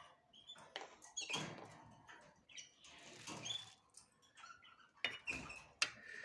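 Small cage birds giving short squeaky chirps, mixed with rustling and sharp clicks as they move about the cage.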